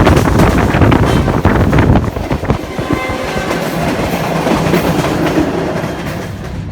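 Passenger train running on the track, heard from on board: wheels clattering over the rails with wind noise. The loud clatter drops about two seconds in to a quieter, steadier rumble.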